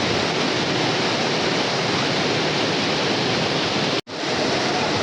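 Steady heavy rain, a dense even hiss that breaks off for an instant about four seconds in and then carries on.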